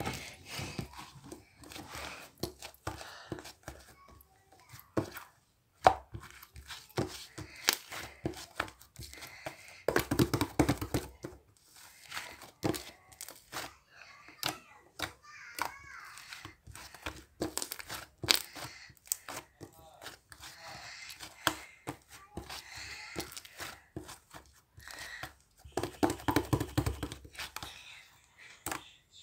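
Slime being played with by hand: sticky clicks, pops and crackles throughout, with denser runs of crackling about ten seconds in and again near the end.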